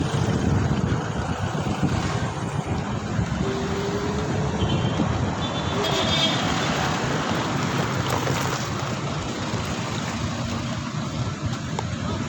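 Road and traffic noise heard while riding through city streets, with wind rumbling on the microphone. A short high tone from a passing vehicle sounds about six seconds in.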